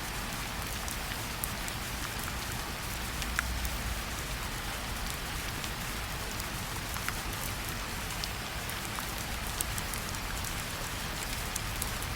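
Steady rain falling, an even hiss with a low rumble beneath, with individual drops ticking sharply here and there.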